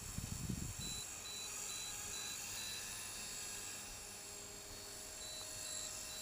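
450-size electric RC helicopter flying, its motor and rotor making a steady high whine. A faint high beep repeats about twice a second for a couple of seconds, twice over. Low rumble in the first second.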